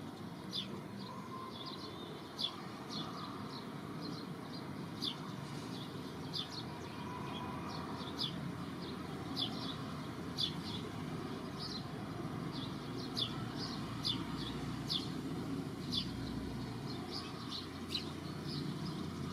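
Short, high chirps repeating about once or twice a second over a steady low outdoor background noise, typical of a small bird calling.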